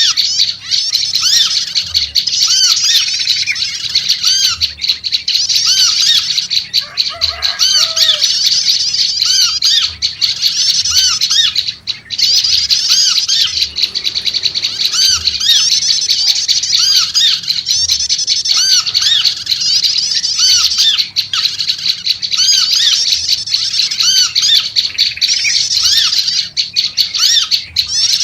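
Prenjak lumut (a small Indonesian warbler) calling noisily, with a dense, unbroken run of rapid, high, chattering notes. A few lower notes come through about seven seconds in.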